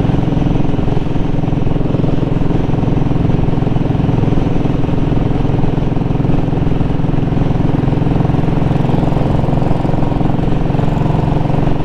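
2017 Royal Enfield Classic 500's single-cylinder engine running at a steady cruise, heard through an exhaust with the baffle removed.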